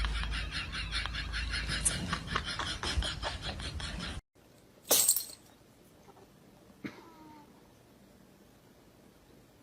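A domestic cat's sounds: a fast, even clicking rhythm for the first four seconds. An abrupt cut follows, then a sudden loud noise about five seconds in and a sharp click with a faint brief call a couple of seconds later.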